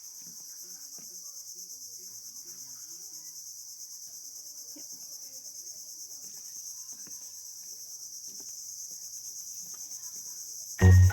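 A steady, high-pitched chorus of insects, crickets or cicadas, chirring with a fast pulse, with faint voices in the background. Music starts abruptly near the end.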